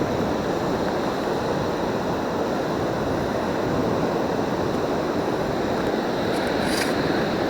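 Steady rush of breaking surf mixed with wind on the microphone, with one brief sharp high tick near the end.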